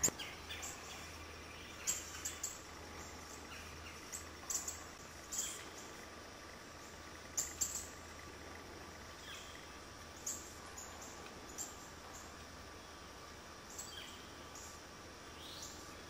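Small birds giving short, sharp, high chip notes, scattered every second or so and sometimes in quick pairs or threes, over a faint steady background hiss and low hum.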